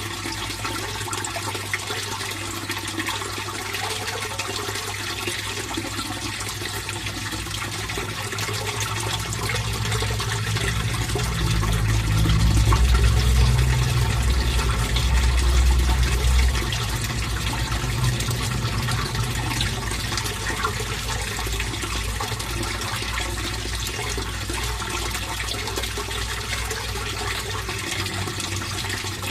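Steady flow of water into a fish pond, with a deep low rumble under it that swells louder for several seconds near the middle.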